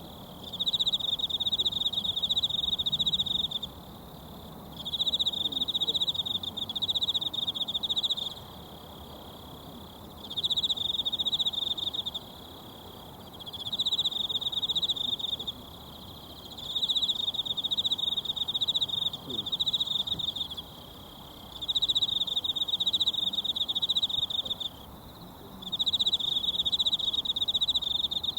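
An insect trilling in high, rapidly pulsed phrases of about two to three seconds each, repeated seven times with short pauses between them. A faint, steady babble of a mountain stream runs underneath.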